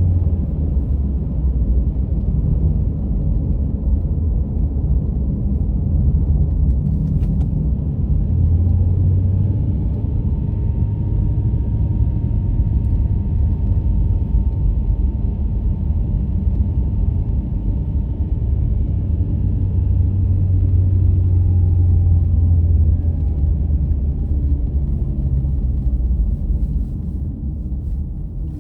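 A car driving at road speed: a steady low rumble of tyre and engine noise, with a faint steady whine above it.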